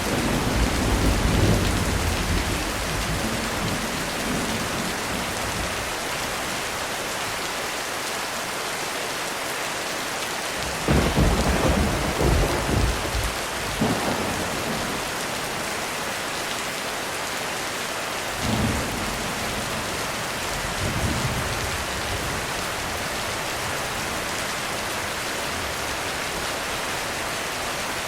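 Heavy rain falling steadily through a thunderstorm. Thunder rumbles at the start, a sharper thunderclap breaks about a third of the way in and rolls on for a few seconds, and two lighter rumbles follow later.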